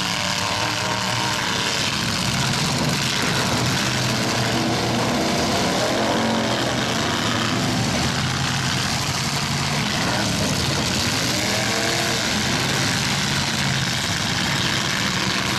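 Several demolition-derby truck engines running and being revved, their pitch rising and falling repeatedly over a steady engine din.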